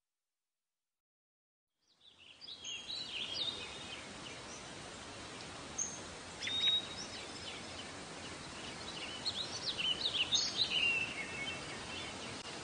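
Silence for about two seconds, then small birds chirping over a steady background hiss.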